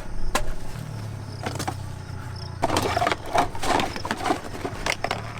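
Irregular knocks and clatter of split firewood being handled and stacked, busiest in the middle, over a low steady hum. Crickets chirp faintly in the background.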